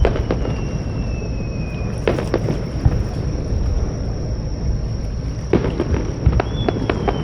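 Fireworks display: sharp bangs of shells bursting, in clusters about two seconds in and again from about five and a half seconds, over a steady low rumble. Twice, at the start and near the end, a high whistle slides slowly down in pitch.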